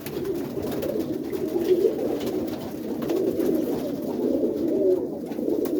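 A loft full of Birmingham Roller pigeons cooing, many birds at once in a continuous overlapping chorus, with a few faint clicks.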